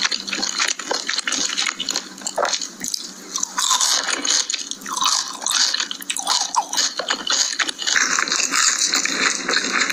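Close-miked eating: wet, irregular biting and chewing sounds with small smacks and squelches. The texture turns denser and hissier about eight seconds in.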